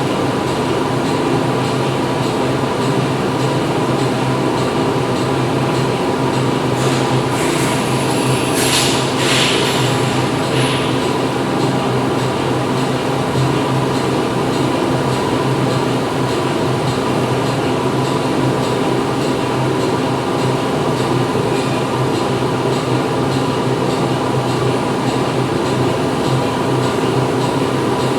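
Factory machinery running steadily, a loud droning hum with a constant low tone. Around eight to ten seconds in, a short burst of high-pitched noise rises over the drone and fades.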